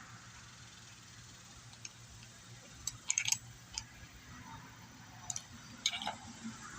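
Small metal chainsaw clutch parts clicking and clinking as they are handled and fitted: a quick run of sharp clicks about three seconds in, a single click after it, and a few more near the end, as the washer goes on over the clutch.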